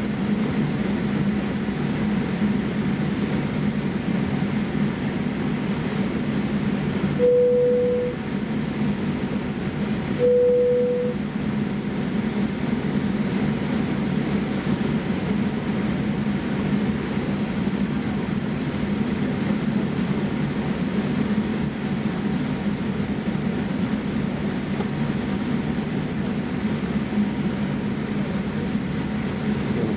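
Steady cabin drone inside a Boeing 787-8 airliner, with a constant low hum. Two short tones of the same pitch, about three seconds apart, sound in the first half.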